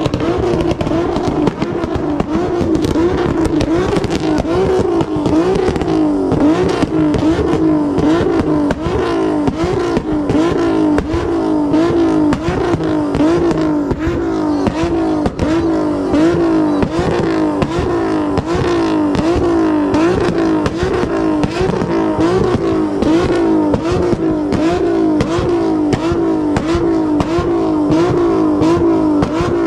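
A 3.7-litre V6 car engine being revved over and over in a steady rhythm, about one rev rise and fall a second, with a dirty, raspy exhaust sound.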